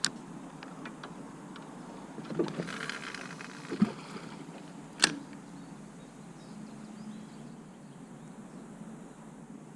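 Fishing rod and reel handled from a kayak during a cast: a few small knocks, a brief swish about three seconds in, and a sharp click about five seconds in.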